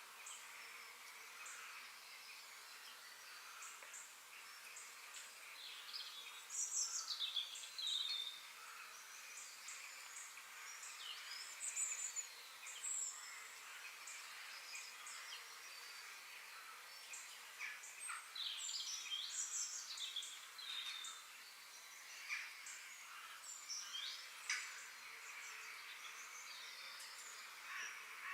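Wild birds chirping and singing over a steady high background hiss, with louder bursts of song about 7 and 19 seconds in.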